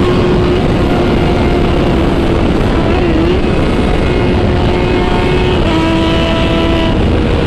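Motorcycle engine running at a steady cruising speed under a loud, steady rush of wind and road noise. The engine note wavers briefly about three seconds in and settles a little lower near the end.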